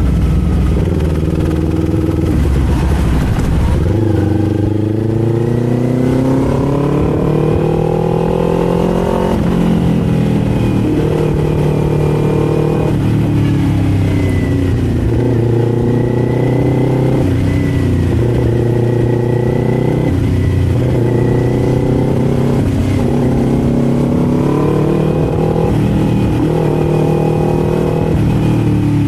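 Kawasaki Z400's 399 cc parallel-twin engine under way, its note climbing with the throttle and dropping back again and again as the rider accelerates, shifts and eases off.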